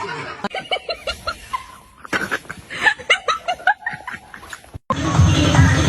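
A person snickering and laughing in short broken bursts, then electronic dance music with a heavy low beat cuts in suddenly about five seconds in.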